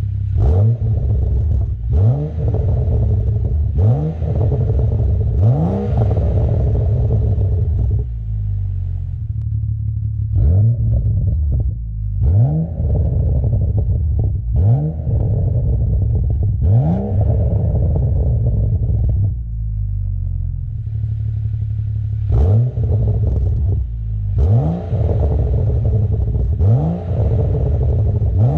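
BMW N55 turbocharged straight-six exhaust through a Ragazzon rear muffler with its flap open, revved in short throttle blips. Each blip is a quick rising rev that drops straight back to a steady idle; they come in runs of three or four about two seconds apart, with idle-only pauses around eight and twenty seconds in.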